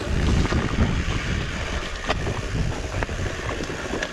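Wind buffeting the microphone while riding a fat bike down a trail, a steady low rumble with scattered knocks and rattles from the bike over rough ground.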